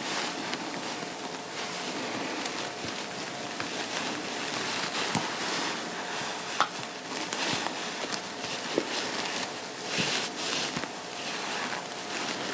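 Fabric rustling and rubbing as clothing is handled and pinned, with scattered small clicks.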